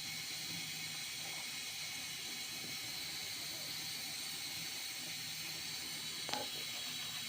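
A steady hiss, with one short click about six seconds in.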